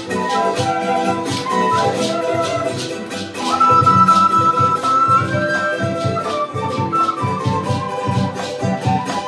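Live Andean folk band: a flute melody, holding one long high note about four seconds in, over steady strummed charango.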